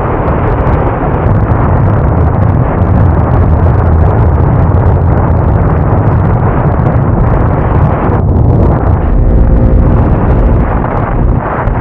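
Motorcycle engine running steadily under way, with heavy wind buffeting on the microphone.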